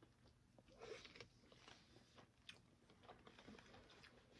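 Faint chewing of chicken fajitas in soft flour tortillas, with scattered small mouth clicks.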